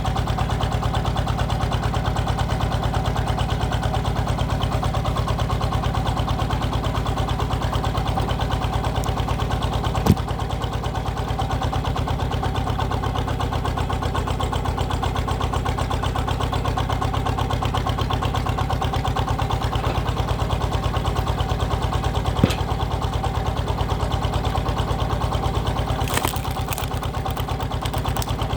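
Power tiller's single-cylinder diesel engine running steadily, powering the hydraulic log splitter built onto it. Two sharp cracks stand out, about ten seconds in and again near twenty-two seconds.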